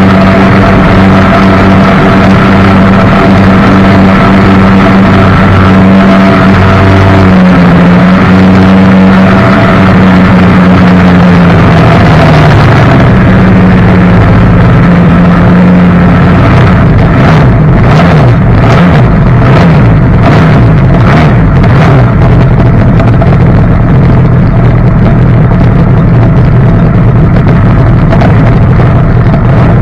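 Outboard jet motor on a john boat running under way, loud and close, its pitch dipping and recovering around the middle. In the second half the sound turns rough and choppy, with rapid bursts of noise over the engine.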